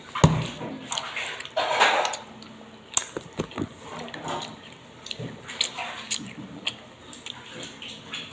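Chewing garlic peanuts close to the microphone: irregular crunches and wet mouth clicks. A thump comes just after the start.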